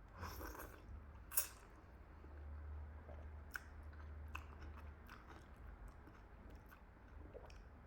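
Close-miked chewing and biting of chilli chicken momo dumplings: soft, scattered mouth clicks and smacks, with one sharp click about a second and a half in.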